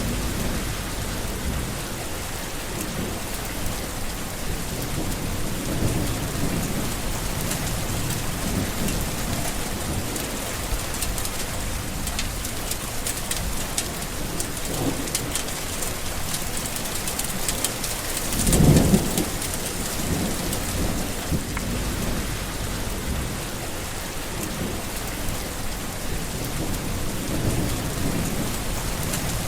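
Steady heavy rain falling, with low rolling thunder throughout and one louder clap of thunder a little past halfway.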